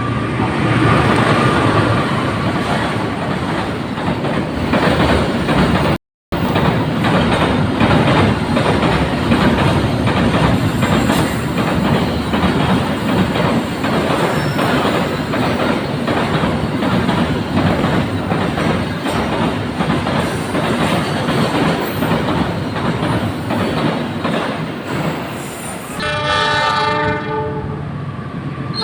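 A train passing close by: a steady rumble with rapid, rhythmic clatter of wheels over the rail joints. The sound cuts out for a moment about six seconds in. Near the end a train horn starts sounding.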